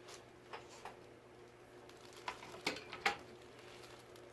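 Light clicks and taps of small parts being handled while ceiling fan blades are fitted, with a few louder knocks between two and three seconds in, over a faint steady hum.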